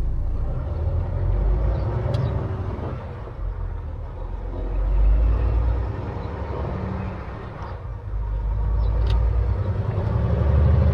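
Semi-truck's diesel engine and road noise heard from inside the cab while the rig gets under way: a deep rumble that swells and eases several times.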